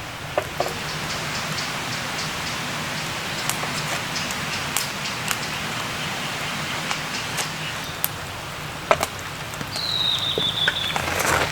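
Rain falling steadily, with scattered sharp drop ticks. About ten seconds in there is a brief high falling whistle, and rustling grows louder near the end.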